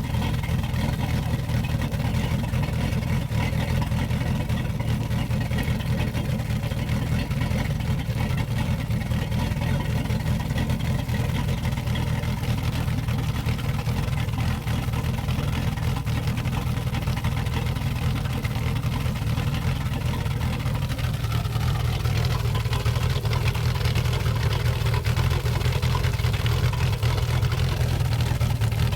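Exhaust of a 1997 Volvo Penta GLI marine engine running steadily, heard at the rear exhaust outlet as a deep, even drone; it gets a little louder about three-quarters of the way through.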